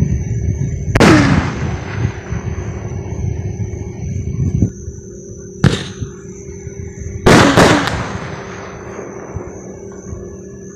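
Fireworks going off: a loud bang about a second in with a long fading tail, a smaller bang in the middle, and a quick cluster of bangs about seven seconds in that also fade away slowly. A steady high drone of insects runs underneath.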